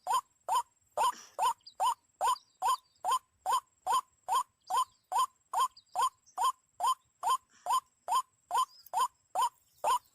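White-breasted waterhen calls: a short rising note repeated at a very even pace, about two to three times a second.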